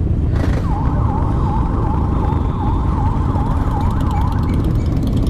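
A siren yelping in quick up-and-down sweeps, about two to three a second, starting about half a second in and stopping a little before the end. It sounds over a steady low rumble of many motorcycle engines idling.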